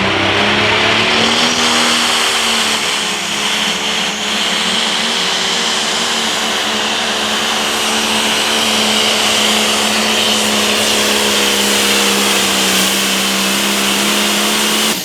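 Turbocharged diesel engine of a Limited Pro Stock pulling tractor running flat out under load, pulling the sled down the track. Its pitch climbs over the first couple of seconds, then holds high and steady, with a steady high turbo whine above it.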